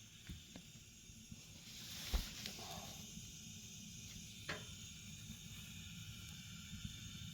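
Natural gas convector burner running with a steady gas-flame hiss that grows louder about two seconds in, with a few faint clicks.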